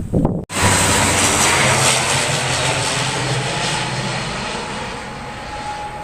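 Fixed-wing airplane passing overhead: a loud engine roar with a steady low hum, starting abruptly about half a second in and slowly fading.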